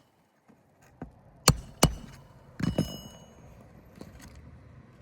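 Two sharp hammer strikes about a third of a second apart, then a brief metallic clatter with a high ringing, as the roofer works shingle nails loose with a hammer and a metal tool.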